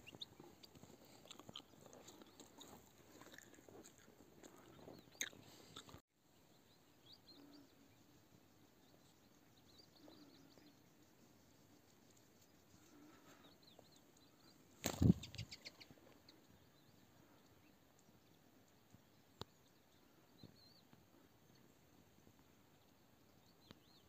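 Faint, scattered chirps of small songbirds against quiet open-air background. There is a brief dropout about six seconds in, and a single loud muffled bump on the microphone about halfway through.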